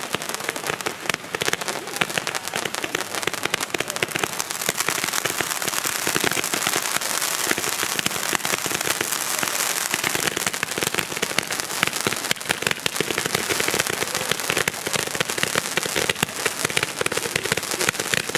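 Category 4 fireworks display: a dense, continuous crackle of many small rapid reports as rising comets and stars burst.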